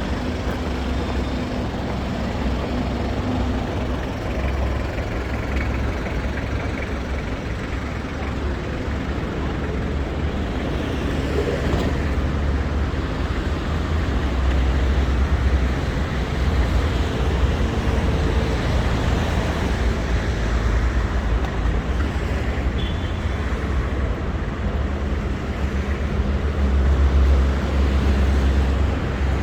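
Steady city street traffic noise with a deep rumble, growing somewhat louder about halfway through.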